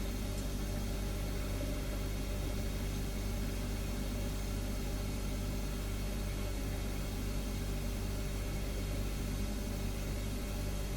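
Refrigerator humming steadily: a low, unchanging hum with several fixed tones over a faint hiss.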